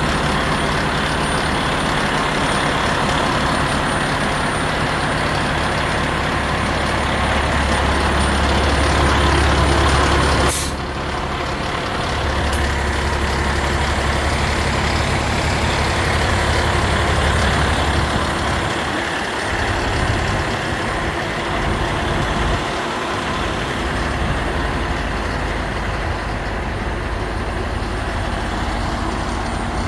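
A 2017 Mack Granite packer garbage truck's diesel engine running steadily, growing louder for about ten seconds. It then drops back suddenly with a sharp click or pop. Its low hum thins out briefly later on.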